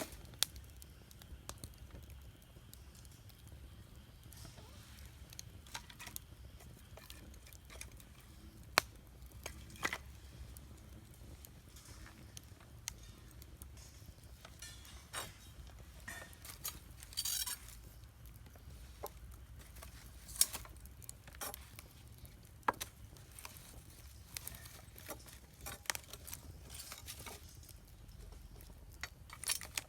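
Wood campfire crackling, with irregular sharp snaps and pops of varying strength over a low steady rumble; the loudest snap comes about nine seconds in.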